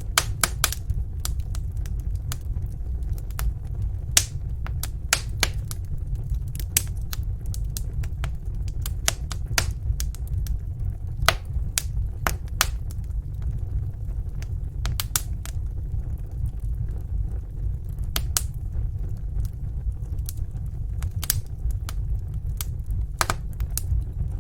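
Wood fire in a fireplace crackling: irregular sharp pops and snaps, some louder than others, over a steady low rumble of the burning logs.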